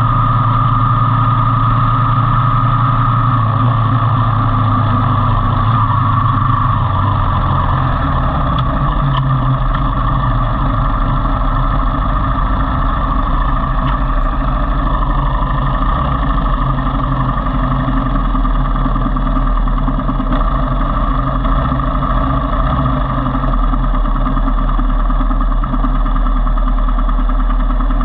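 Motorcycle engine running steadily, with a change in the engine note about eight seconds in.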